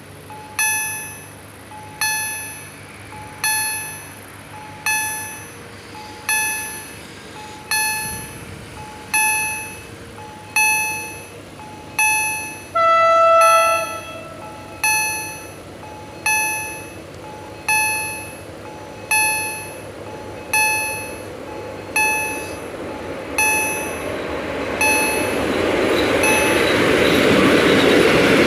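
Level-crossing EHL-S10 electronic warning bell striking about once every second and a half, each strike dying away quickly. About 13 s in, a train horn sounds once for about a second and a half. From about 22 s, the running noise of an approaching ET22 electric locomotive hauling tank wagons rises and grows loud by the end.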